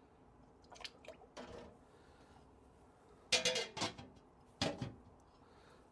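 Small metal brake master cylinder parts being handled and set into an ultrasonic cleaner: a few light knocks, then two louder clattering clinks.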